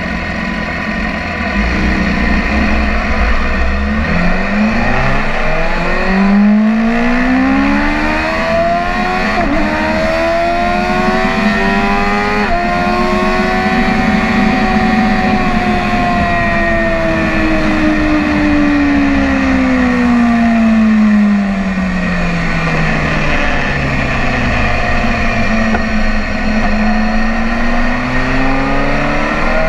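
BMW S1000RR sportbike's inline-four engine on track, pulling hard up through the gears with two quick upshifts, then winding down slowly off the throttle and picking up again near the end.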